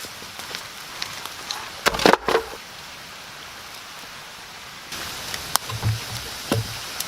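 Irregular knocks and clicks over a steady hiss, with a loud cluster of knocks about two seconds in and a few dull thumps near the end.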